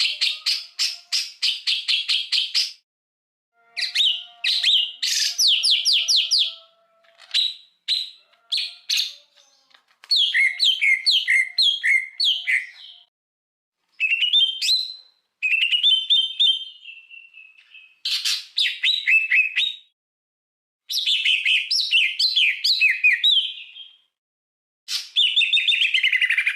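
Songbird song on a masteran tutor recording: loud phrases of rapid chattering trills, quick runs of repeated falling notes and, about midway, a held whistle. The phrases come in bursts of one to three seconds, each cut off suddenly into dead silence by the edit.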